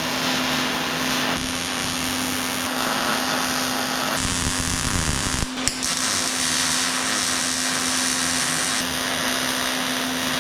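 Angle grinder running steadily against welded steel angle iron, grinding down the welds, its motor whine constant under the grinding noise. A single sharp knock a little past halfway.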